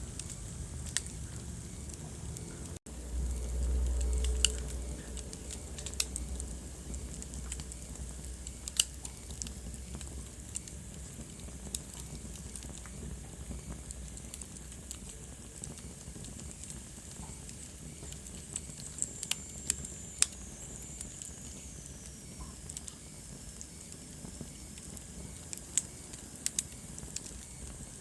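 Wood fire crackling in a fireplace: scattered sharp pops and snaps over a low steady rumble. There is a brief cut-out about three seconds in, then a swell of low rumble for a couple of seconds, and later a faint high whistle that slowly falls in pitch.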